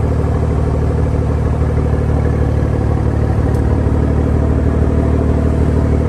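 Toyota Supra A90 engine idling steadily through a Tomei dual titanium exhaust, loud, after a warm start.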